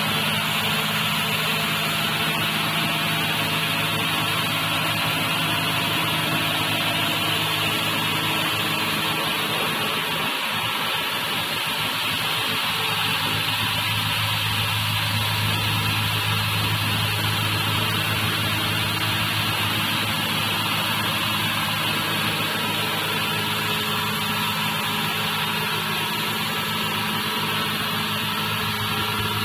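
Automatic car wash machine running on test: a steady motor and pump hum with a hiss over it. The low hum grows louder about thirteen seconds in.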